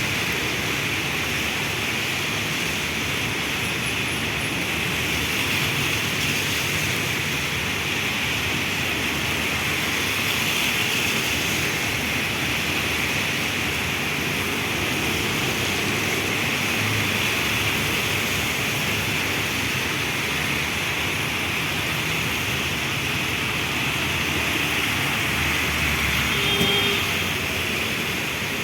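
Heavy rain falling steadily as an even hiss, with a brief louder swell near the end that has a low rumble under it.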